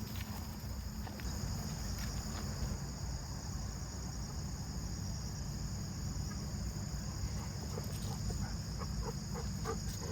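Insects, crickets, chirring steadily in a high, even tone over a low rumble, with a few short light sounds near the end.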